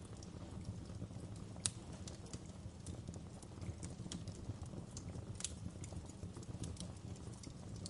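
Wood fire burning in a fireplace: a steady low rumble of the flames with irregular sharp crackles and pops of the burning logs, the loudest pop about a second and a half in.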